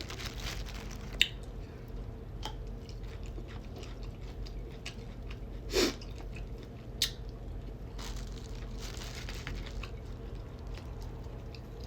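Close-miked chewing of food with wet mouth smacking, and a few sharp clicks scattered through it, the loudest about six seconds in.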